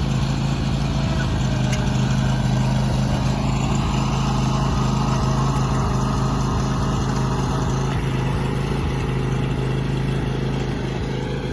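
Riding lawn mower's small engine running at a steady speed, an even low drone.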